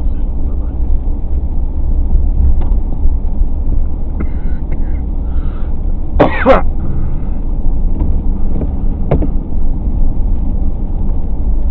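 Steady low road and engine rumble heard from inside a moving car's cabin, with a short cough or throat-clear about six seconds in.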